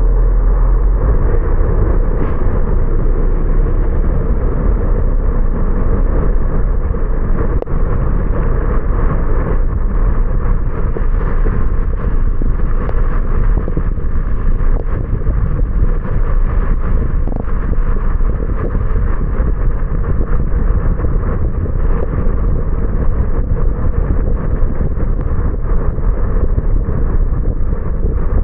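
Car driving on a rain-wet road, heard from inside the cabin: steady road and tyre noise over a strong low rumble.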